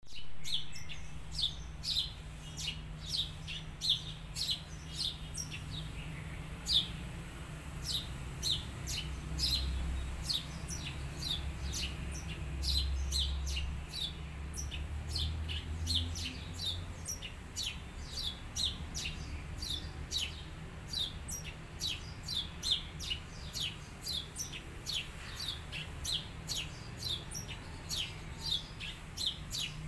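Small birds chirping with short, sharp, high calls repeated about twice a second, over a low steady rumble.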